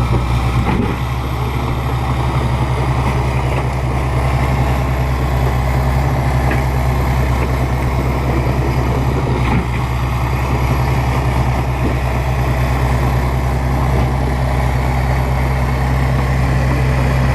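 Bulldozer's diesel engine running steadily with a low, even drone, with a few brief knocks about a second in, midway and just before ten seconds.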